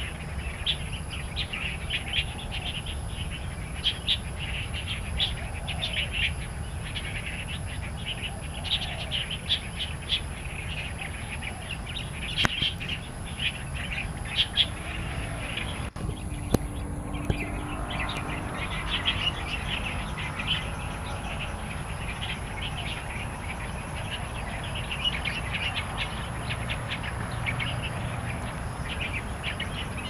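Wild songbirds chirping: many short, sharp high notes repeating irregularly, over a steady outdoor background with a thin constant high whine.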